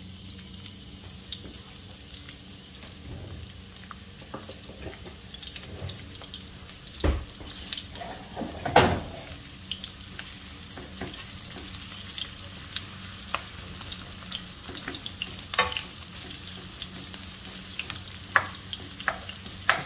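Onion frying in hot oil in a pan: a steady sizzle with scattered clicks of a utensil stirring, and two louder knocks about seven and nine seconds in.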